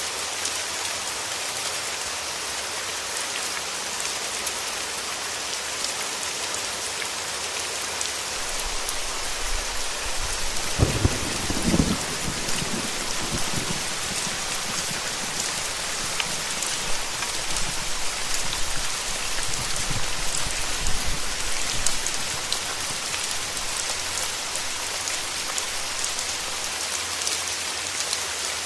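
Steady rain falling, a dense even hiss. About a third of the way in, a low roll of thunder builds, is loudest within a few seconds of starting, and rumbles away over about ten seconds.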